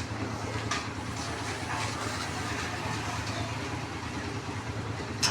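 An engine running steadily at idle, a low even hum, with a few faint knocks over it.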